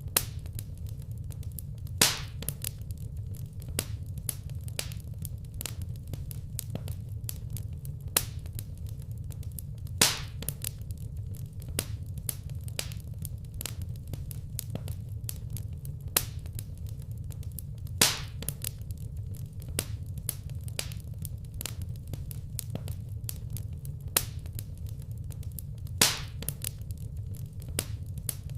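Fireplace fire crackling: a steady low rumble under frequent small snaps, with a louder pop about every eight seconds.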